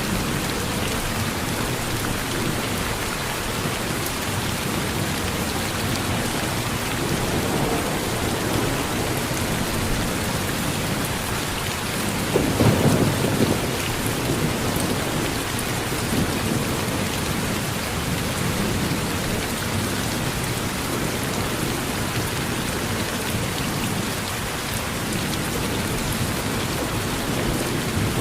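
Steady heavy rain falling, with a low rumble of thunder swelling briefly about halfway through.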